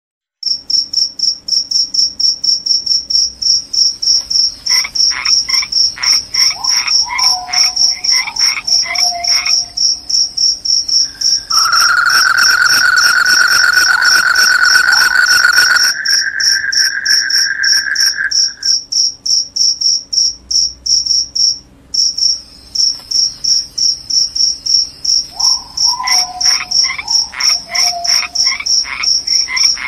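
Crickets singing: a loud, high, rapidly pulsing trill that runs on almost without a break. Twice, lower pulsed calls ending in falling notes join in for a few seconds, and for several seconds in the middle a steady lower trill sounds over it.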